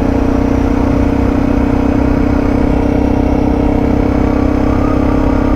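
Suzuki DR650's single-cylinder engine running steadily at an even pitch.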